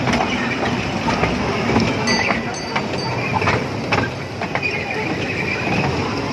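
Children's ride-on train running in a busy mall play area: a steady din with scattered clicks and clacks, and a brief high beeping a little after two seconds in.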